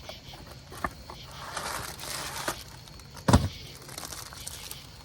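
Plastic food wrapper crinkling as it is handled and opened, with a click just under a second in and one sharp thump about three seconds in.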